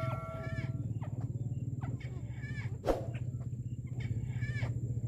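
White-browed crake calls: short, nasal, chattering notes repeated about once a second over a steady low hum. A single sharp knock about three seconds in.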